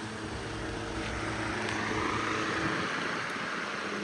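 1922 Emerson 29646 12-inch table fan running on high speed: a steady motor hum under the rush of air off the blades, the air rush swelling and fading about midway.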